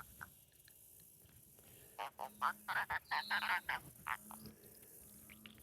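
Animal croaking: a run of rapid rasping clicks for about two seconds in the middle, with a low hum that comes and goes in four short pulses.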